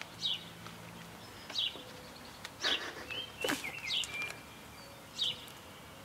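Short, high bird chirps repeated about once every second or so, with a brief rustle in the middle.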